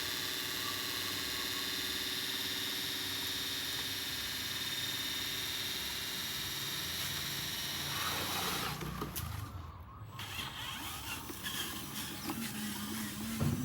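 Small electric motors and gearing of radio-controlled construction models whining steadily, then turning uneven and quieter about eight seconds in.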